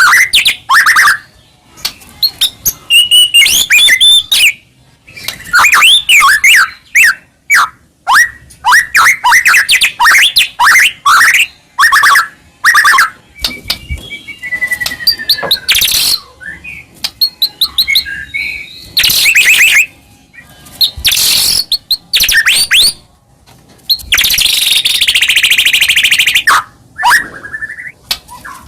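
White-rumped shama (murai batu) in full, loud song: rapid, varied phrases of whistles, pitch sweeps and fast trills in bursts with short pauses between, and a longer harsh phrase near the end. It is the bird in top singing form ('gacor'), the kind of song played to provoke other shamas into singing.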